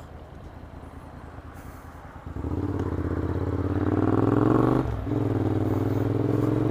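Motorcycle with an aftermarket Vance & Hines exhaust idling, then pulling away about two seconds in, the engine note rising in pitch as it accelerates. A brief dip midway marks an upshift, and the engine then pulls on in the next gear.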